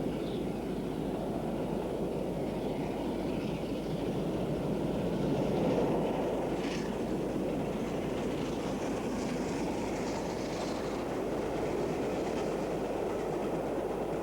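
Steam locomotive running on the line, most likely LNER Peppercorn A2 Pacific No. 60532 Blue Peter: a steady, dense rumble of exhaust and wheels, with a brief higher-pitched sound about seven seconds in.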